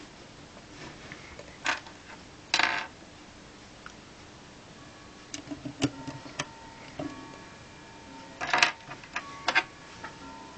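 Plastic LEGO bricks clicking and clattering as they are handled and pressed together: scattered sharp clicks, with louder short clatters about two and a half seconds in and again near the end.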